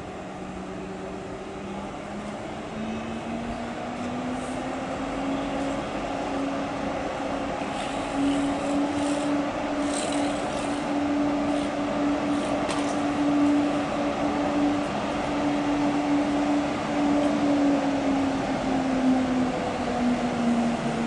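TGV high-speed electric train approaching slowly into the station, its rumble growing louder. A steady electric whine from the train climbs a little in pitch over the first few seconds, holds, and drops back near the end, with a few brief sharp squeaks in the middle.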